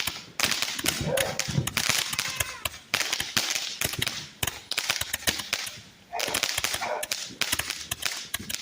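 Fireworks going off in rapid strings of sharp pops and crackles. Several bursts each start suddenly and fade over a second or two.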